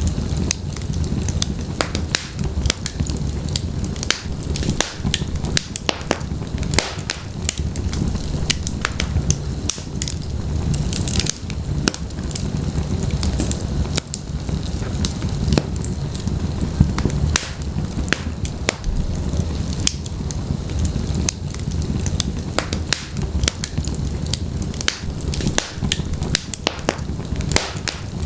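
Wood logs burning in a fireplace, with a steady low rumble of flame and many sharp crackles and pops at irregular intervals.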